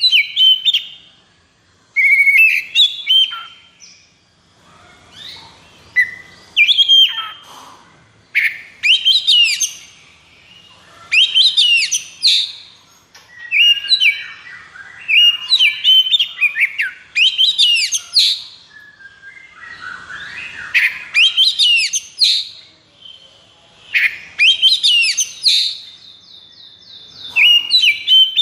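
Oriental magpie-robin (kacer) singing in loud, rapid bursts of rising and falling whistled notes, one phrase about every two seconds with short pauses between. This is the fired-up, aggressive 'konslet' song used to provoke other kacer into singing.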